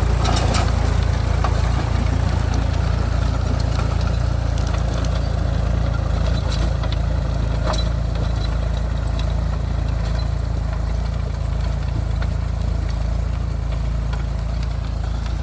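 Mahindra 275 DI TU tractor's 39 hp diesel engine running steadily, a low, even drone.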